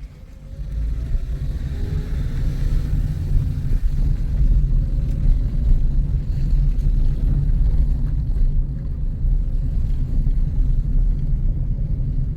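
Toyota car with an MMT semi-automatic gearbox driving: a steady low rumble of engine and road that grows louder about a second in as it picks up.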